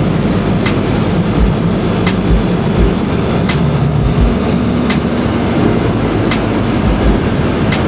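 Motorcycle riding, with engine and wind rush on the helmet microphone. A sharp tap comes about every second and a half, fitting a jacket strap flapping against the helmet.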